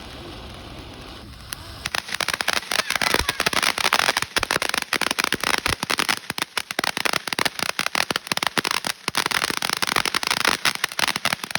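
Consumer firework going off in a fast, continuous run of crackling pops, starting about two seconds in and keeping up without a break.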